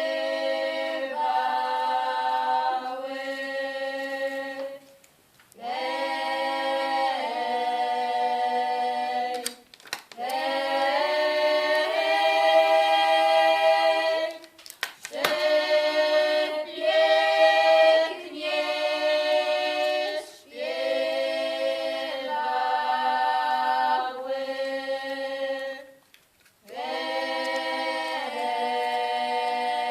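Choir singing a cappella, in sung phrases of a few seconds each with short breaks between them.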